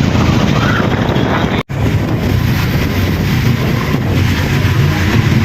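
Motorcycle running along on a ride, with wind buffeting the microphone; the sound cuts out for a split second about a second and a half in.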